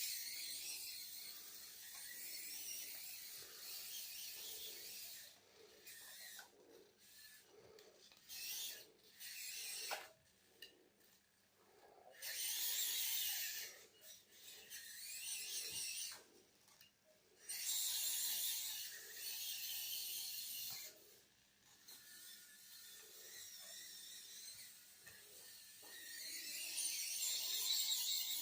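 Two N20 12V micro gear motors driving a WPL 6x6 RC truck chassis: a high gear whine and rasp that starts and stops over and over, with a regular pulse beneath it.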